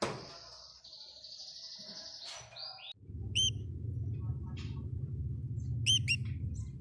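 Canary singing a fast, sustained high trill, then a few short sharp chirp calls. A steady low rumble comes in about halfway through.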